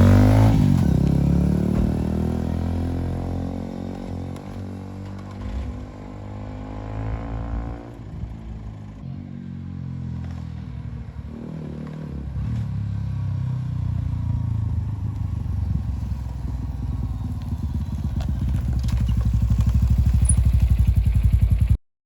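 Lexmoto ZSX-R's 125cc single-cylinder four-stroke engine being ridden. It revs hard at first, then gets quieter over several seconds. It grows louder again towards the end before the sound cuts off abruptly.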